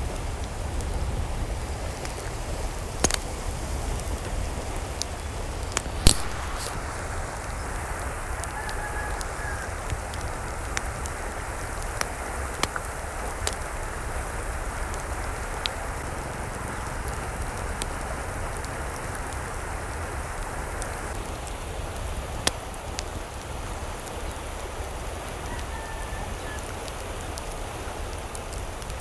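Steady rain falling, with occasional sharper drips and taps striking a surface. A faint bird call sounds twice, about a third of the way in and again near the end.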